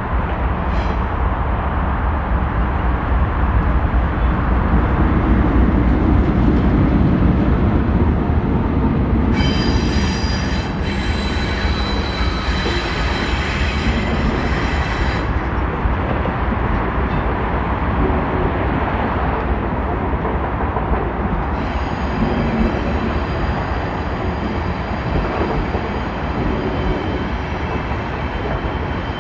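A DF4D diesel locomotive passing close by, hauling an unpowered CR400BF-C high-speed trainset: a steady heavy rumble of engine and wheels on the rails. About ten seconds in a high metallic wheel squeal with several tones sets in for about five seconds, and a fainter squeal returns for the last eight seconds or so.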